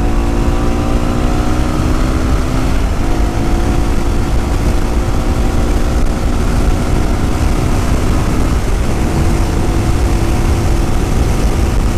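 Yamaha WR250R's single-cylinder 250 cc engine running under way, with heavy wind rumble on the microphone. The engine pitch steps up about three seconds in and shifts again near nine seconds.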